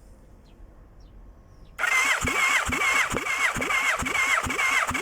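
Yamaha V-MAX 1200 V4 engine being turned over by its electric starter for a compression test: a whirring crank that starts about two seconds in, with an even pulse about twice a second as each cylinder comes up on compression.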